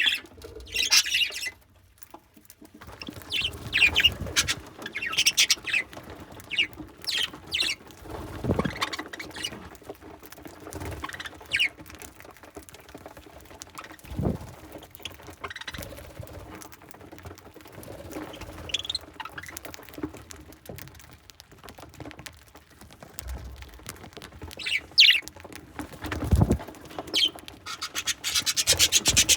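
Budgerigars chirping and squawking in short scattered bursts, over many small clicks and taps of beaks pecking at seed. A few dull thumps stand out, the loudest about two-thirds of the way through.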